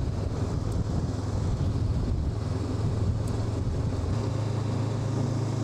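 Honda NX500's parallel-twin engine running steadily while riding, under an even rush of wind noise.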